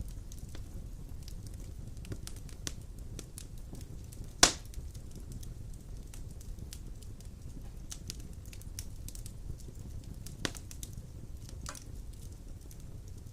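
Wood fire of large logs burning in a stone fireplace: a steady low rumble of flames with constant small crackles, and two loud sharp pops, the louder about four seconds in and another about ten seconds in.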